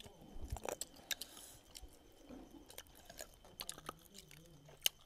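Close chewing and eating sounds of people eating roast duck by hand: wet mouth noises and scattered sharp clicks of biting and chewing.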